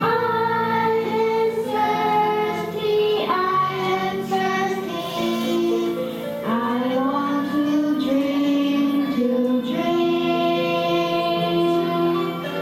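Children singing a song together over music, in long held notes that change about every second.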